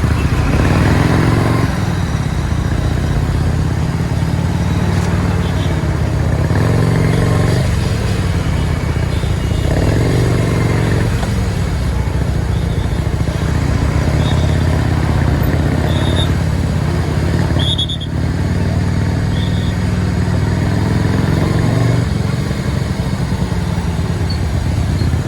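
Motorcycle engine running while riding, its pitch rising and falling with the throttle several times. Short high beeps come a few times, about two seconds apart, in the middle.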